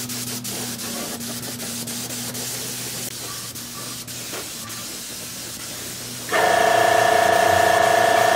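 Steady hissing spray with a faint low hum and a few light clicks. About six seconds in, a motor-driven power tool starts suddenly with a loud steady whine and keeps running.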